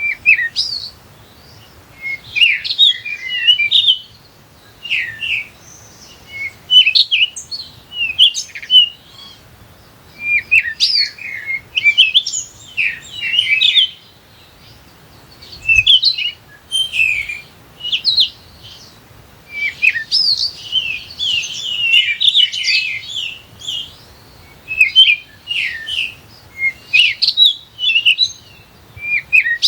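Small songbirds chirping and twittering in quick, high bursts of a second or two, one after another with short pauses between.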